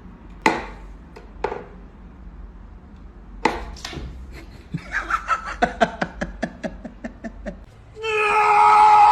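A few sharp knocks, then a person laughing in quick short pulses, about four a second. About a second before the end, a loud, steady, high-pitched wail starts.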